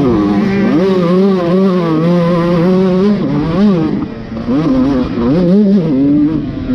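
Motocross dirt bike engine running under changing throttle, its pitch climbing and dropping repeatedly, with sharper dips and climbs past the middle.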